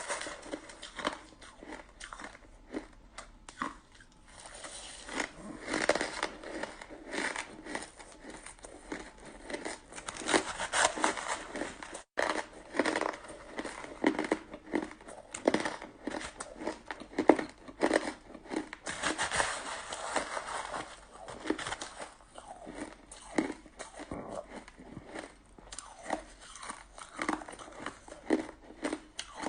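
A person biting and chewing crunchy frozen shaved ice, with irregular crunches close to the microphone throughout.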